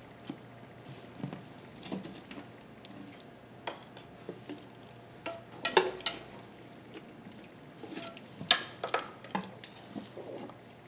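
Irregular metallic clinks and taps of hand tools and small metal parts being handled while working on an engine, with louder clanks about six and eight and a half seconds in.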